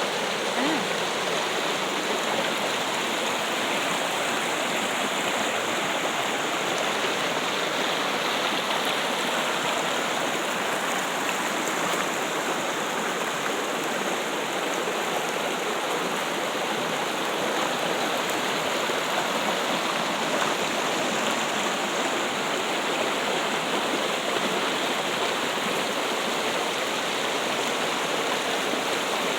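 Trickling water running steadily, an even, unbroken rush.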